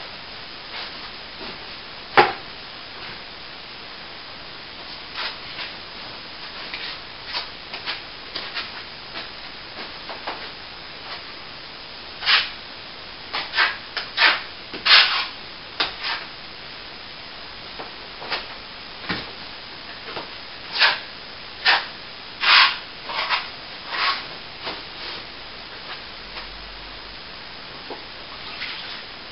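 A hand tool scraping across plaster on a wall in short, irregular strokes, with a sharp knock about two seconds in.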